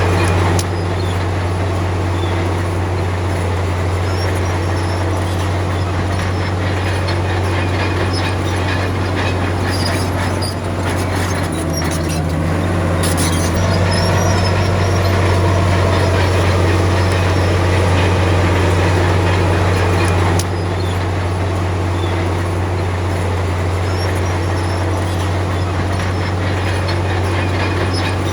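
Komatsu D53P crawler bulldozer's diesel engine running steadily with a deep drone, under metallic clanking and rattling from its tracks; the engine gets louder about halfway through, then drops back suddenly later on.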